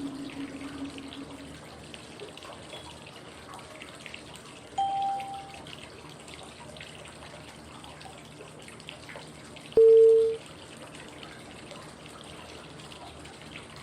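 Steady flowing-water white noise with a short chime-like cue tone every five seconds, marking the inhale, hold and exhale phases of 5-5-5 breathing. A higher tone sounds about 5 s in and a louder, lower one about 10 s in.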